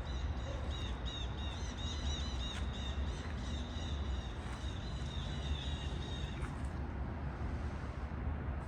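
A bird calling in a rapid series of short arched notes, several a second, stopping about six and a half seconds in, over a steady low rumble.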